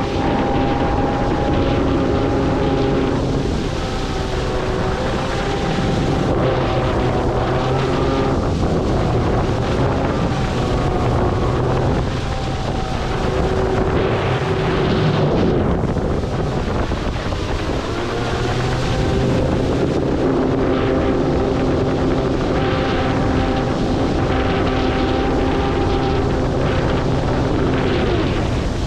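Electric kart boat running on the water: a steady motor whine whose pitch shifts up and down a few times with the throttle, over rushing water and wind on the microphone.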